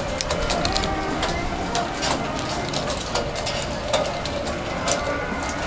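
Indistinct background voices of people over a steady noisy bed, with many scattered sharp clicks and knocks.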